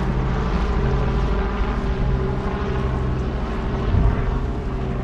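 Helicopter flying past, its rotor making a steady low drone with a fast pulse, with one brief louder low bump about four seconds in.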